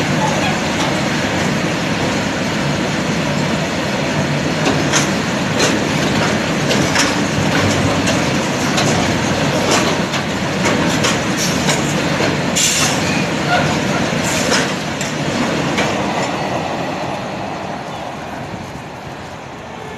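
Freight train of covered goods wagons running past at speed: a continuous rumble and rattle of the wagons with many sharp clicks from the wheels on the track. It dies away over the last few seconds as the end of the train goes by.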